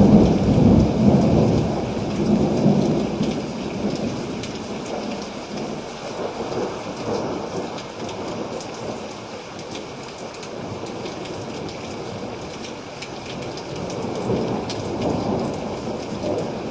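Steady rain with a rolling thunder rumble, loudest at the start and fading over several seconds, then swelling again more softly near the end.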